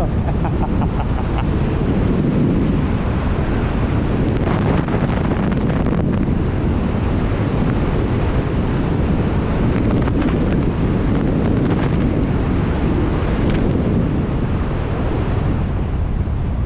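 Loud, steady wind buffeting the microphone from the airflow of a paraglider in flight.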